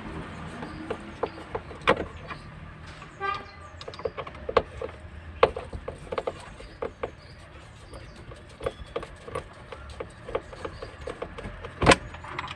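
Irregular clicks and knocks of hand tools and loosened parts while the sunroof motor is being removed from the car's roof, with a sharper, louder knock near the end.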